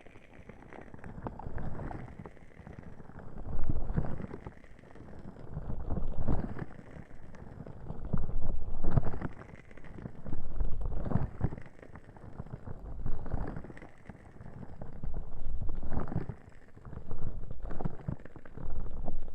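Ear cupping on a 3Dio binaural microphone's ears: slow, rhythmic rubbing and muffling swells, about one every two seconds.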